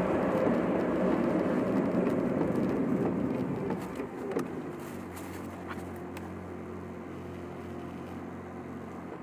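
Car interior while driving: steady road and tyre noise that falls away about four seconds in, leaving a quieter low, steady engine hum with a few light clicks.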